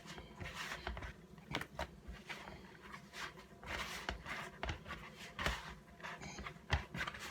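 Hands kneading soft dough of flour, margarine and water, giving irregular soft squishes and light taps.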